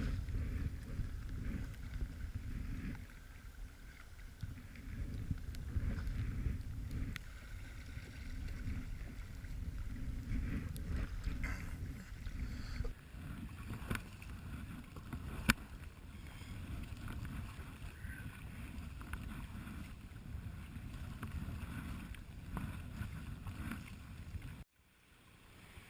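Wind rumbling on the microphone over the small knocks and splashes of a kayak being paddled on a cold lake, with one sharp click about halfway through. The sound drops away abruptly near the end.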